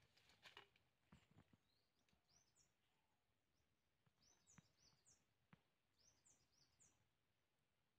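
Faint birdsong: a short phrase of quick high notes, repeated about every two seconds, with a few faint taps in between.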